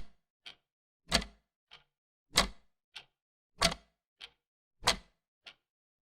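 Clock ticking in an uneven tick-tock: a loud, heavy tick about every one and a quarter seconds, each followed about half a second later by a softer, lighter tock.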